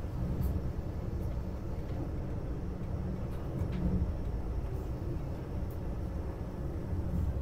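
Interior running noise of a Vande Bharat Express electric train at about 130 km/h: a steady low rumble with a few faint clicks.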